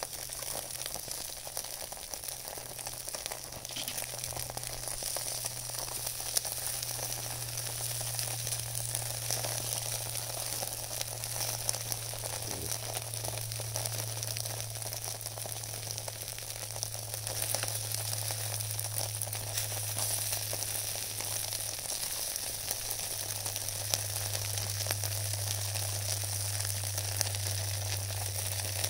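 Vegetables (cabbage, green pepper and green beans) sizzling in an aluminium tray over a charcoal shichirin, a steady frying hiss with fine crackling. A low steady hum runs underneath.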